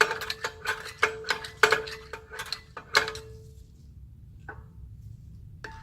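Rear parking-brake star-wheel adjuster being turned to tighten the shoes, clicking notch by notch with a metallic ring from the brake rotor, about three to four clicks a second. The clicks pause after about three seconds, with one lone click, and start again near the end.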